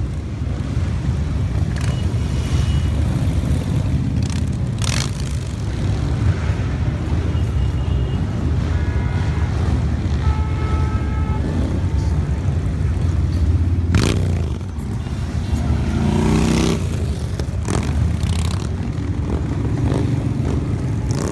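Motorcycle engines running in a steady low rumble, with bikes swelling past a couple of times and one engine revving up about sixteen seconds in.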